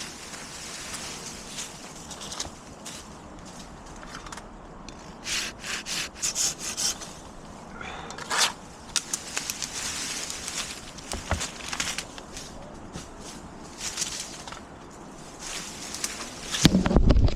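Wood scraping and rubbing in short, uneven bursts, with a run of quick stroke-like scrapes in the middle, as maple branches are worked and cut. A loud, heavy thump near the end.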